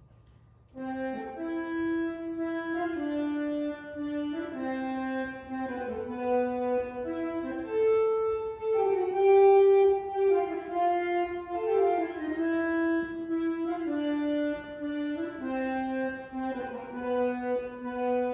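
Orchestral music starts about a second in after near silence: a slow melody of held notes over sustained chords, each note lasting a second or two.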